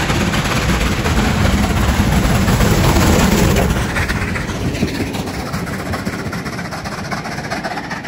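Locomotive-hauled British Pullman train, with a Class 67 diesel locomotive on the rear, running past the platform. It is loudest about three seconds in, then fades as it draws away.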